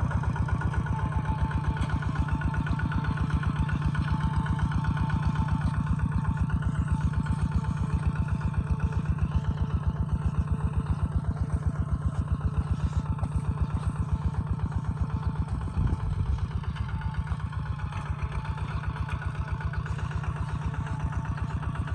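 Kubota ZT140 single-cylinder diesel engine of a two-wheel walking tractor running steadily with an even, rapid chug. There is a brief low thump about two-thirds of the way through, and the engine is slightly quieter after it.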